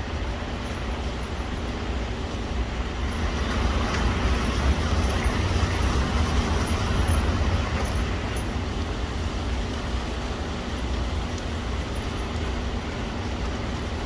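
Steady rain, an even hiss, over a deep continuous rumble that swells a little a few seconds in.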